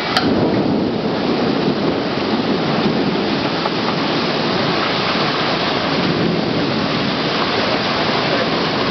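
Heavy rain pouring down in a squall, driven by strong wind: a loud, steady hiss of water without a break.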